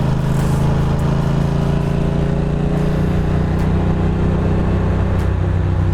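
Ducati Monster 620's air-cooled L-twin engine running steadily at a relaxed cruising speed.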